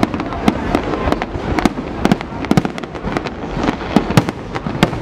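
Aerial fireworks display: shells bursting in a rapid, uneven run of sharp bangs, several a second, over a continuous background of crackle and rumble.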